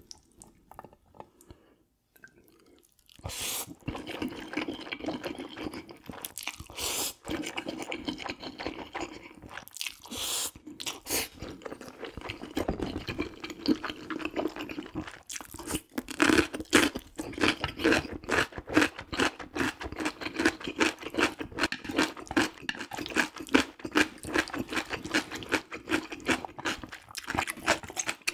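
Close-miked chewing of jjajang ramyeon noodles and beef, a fast run of wet mouth clicks and smacks. It is nearly quiet for the first three seconds and louder from about halfway.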